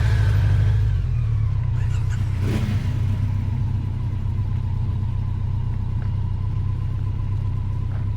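Heavy BMW touring motorcycle engine idling steadily with a low, even hum. There is a brief knock about two and a half seconds in.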